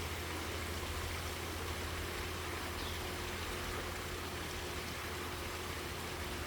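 Steady background hiss with a constant low hum underneath; no distinct bird call or other event stands out.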